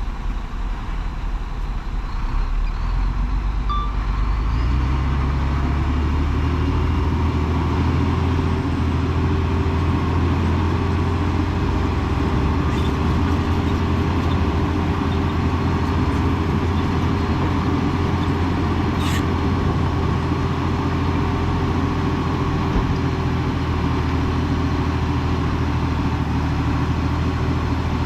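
Heavy diesel engine running. About four seconds in, it picks up to a higher, steady pitch and holds there.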